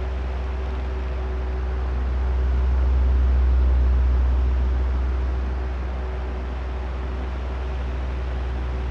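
Oscillating electric fan running: a steady rush of air over a low motor hum, swelling louder about three seconds in and easing off again as the head turns toward and then away.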